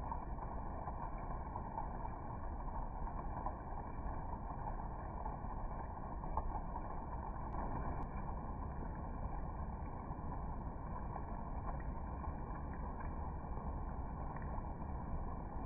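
Steady rain falling, an even noise that goes on without a break.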